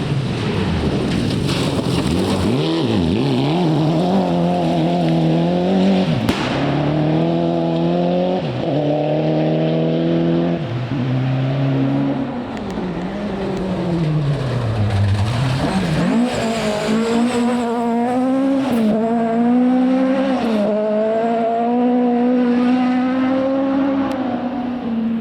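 Rally car engine pulling hard through the gears, its pitch climbing in steps with each upshift. About halfway through, the revs fall away under braking and downshifts, then climb again through the gears and hold high. A few sharp cracks break through the engine note.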